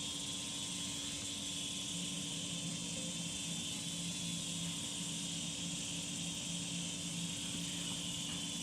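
Steady, faint high-pitched insect chirring, an even drone with no breaks, with a low hum underneath.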